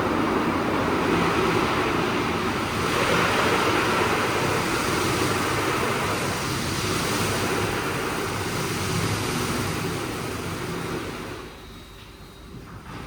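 WashTec SoftCare² Pro rollover car wash in operation: a steady rush of water spray and machinery that falls away sharply about eleven and a half seconds in.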